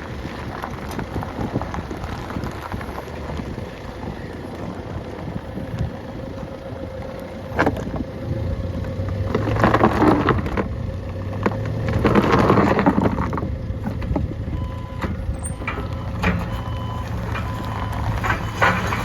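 Forklift engine running, with a steady low hum from about eight seconds in and two louder swells around ten and thirteen seconds in.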